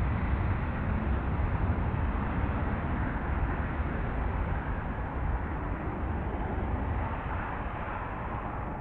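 F-35B Lightning's jet engine running, a steady noise with a strong low rumble that eases slightly near the end.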